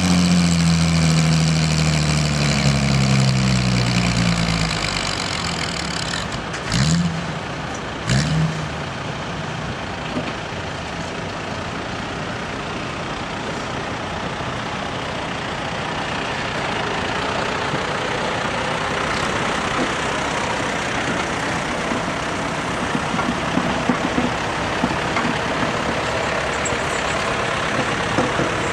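Farm tractor engine under load pulling a sled, its note falling over the first few seconds, with two short sharp sounds a second and a half apart, then a steady engine noise for the rest.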